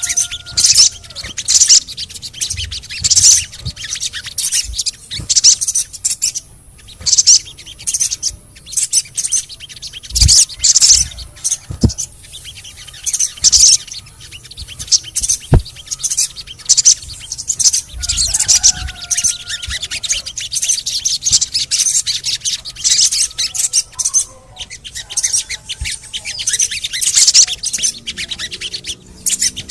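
Sogon birds calling: rapid, high-pitched chirping and chattering in bursts that follow one another closely throughout, with a few sharp clicks.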